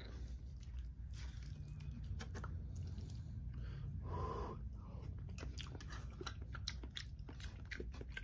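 Close-miked chewing and wet mouth clicks and smacks from a person eating a mouthful of food, with a steady low hum underneath. The sound grows briefly louder and fuller about four seconds in.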